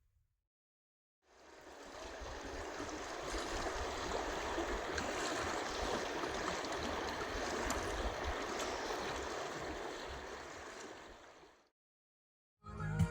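Running water of a stream, a steady rushing and gurgling that fades in about a second in and fades out shortly before the end.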